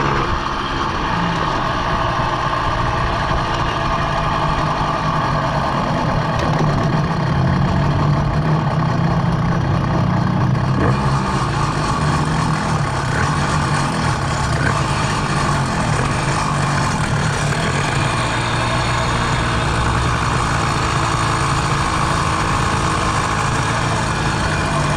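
Minarelli vertical two-stroke scooter engine on a motorized bicycle, running steadily at a fairly constant speed, with a rise in hiss about eleven seconds in.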